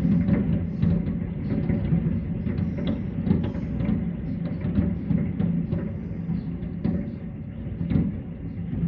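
Fireworks going off in a dense, continuous barrage of booms and sharp cracks over a low rumble, with a steady low hum underneath.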